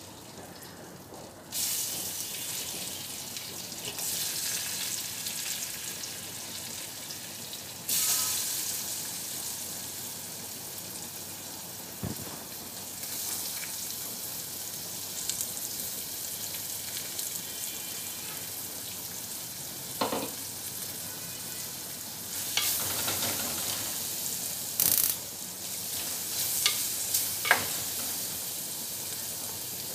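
Chopped onions sizzling in hot oil in an earthenware pot. The sizzle jumps up about a second and a half in and surges louder now and then. Near the end a spatula stirs them with a few sharp clicks against the pot.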